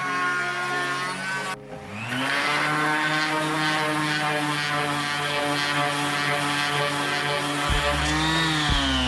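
Electric power tool motor running, stopping briefly about a second and a half in, then spinning back up to speed and running steadily before its pitch drops near the end.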